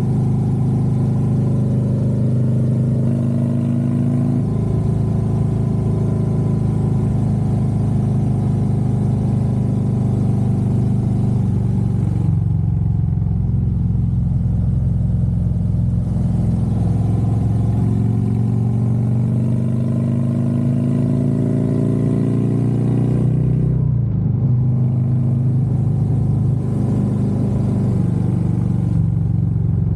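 Harley-Davidson Road Glide's V-twin engine running under way on the road. Its pitch rises steadily for several seconds past the middle, then drops sharply and settles.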